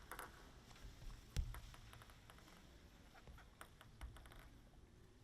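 A near-quiet sports hall with a few faint clicks and one dull thump about a second and a half in.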